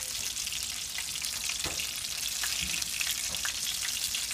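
Batter-coated oyster mushroom pieces frying in hot oil in a skillet, sizzling and crackling steadily. A few light knocks come from metal tongs against the pan as the pieces are turned.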